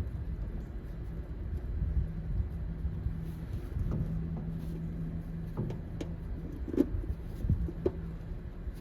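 Pliers working a plastic connector clip, a few short sharp clicks in the second half, over a steady low hum and rumble.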